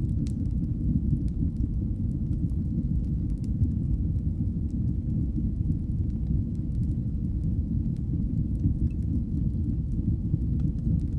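Wood fire burning in a fireplace: a steady low roar of the flames with scattered faint sharp crackles.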